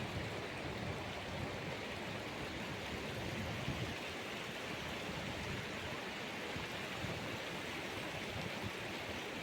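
Rushing whitewater of the Beas River: a steady, even rush of moving water.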